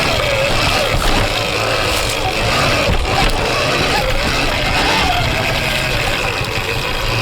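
Surron Ultra Bee electric dirt bike with a TORP TM50 Pro motor whining, its pitch rising and falling repeatedly with the throttle, over a steady low rumble.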